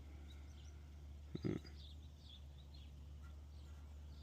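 Faint birds chirping over a steady low hum, with one brief voice-like sound, like a short grunt or hum, about one and a half seconds in.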